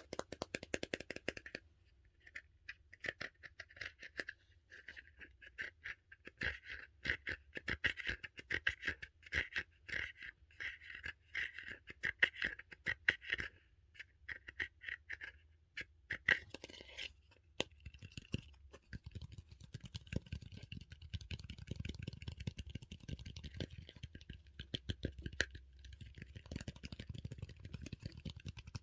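Close-miked ASMR handling of a dumpling-shaped squishy toy and its plastic case: rapid scratching and scraping strokes, turning about two-thirds of the way through into a softer, more continuous rustling with a low rumble.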